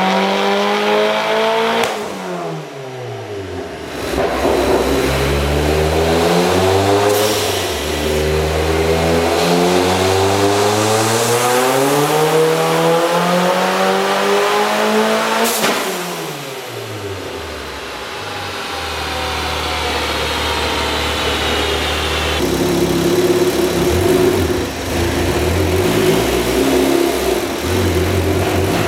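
Turbocharged 2.5-litre Mazda MZR four-cylinder in an MX-5 on a chassis dyno. The revs fall away about two seconds in, then a long full-throttle pull climbs steadily in pitch for about eleven seconds. It cuts off sharply, the revs drop, and the engine runs at low revs to the end.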